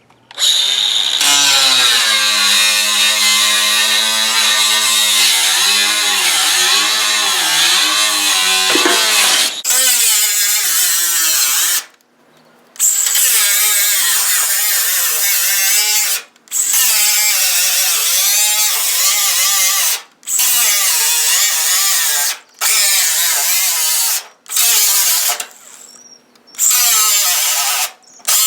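Electric drill boring out spot welds in the steel roof skin of a 1963 Chevy truck. It runs without a break for about twelve seconds, then starts and stops in a string of shorter runs of two to four seconds each. The motor's pitch wavers as the bit bites into the metal.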